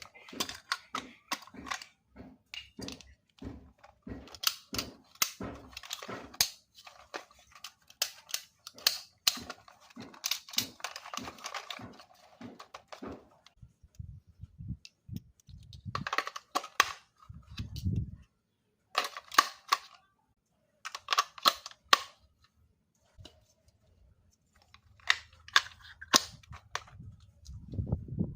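Irregular sharp clicks and knocks from hard plastic objects being handled, with some rustling in the first half and a couple of dull thumps.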